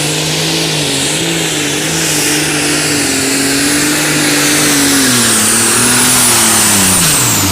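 Alcohol-fuelled light super stock pulling tractor at full throttle under load down the track, its engine note held nearly steady with a high turbocharger whine above it. Near the end the driver comes off the throttle: the engine pitch drops sharply, and the turbo whine winds down after it.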